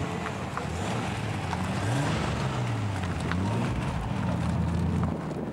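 Nissan Skyline's engine running and blipped a few times, its pitch rising and falling in the middle before settling back to a steady hum.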